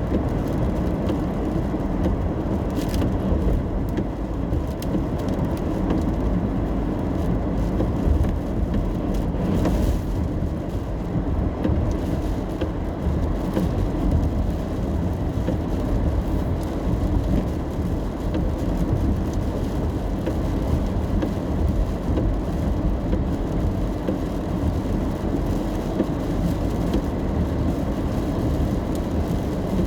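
Car driving in the rain: steady low road and engine noise, with a couple of brief swells of higher hiss, a few seconds in and again about ten seconds in.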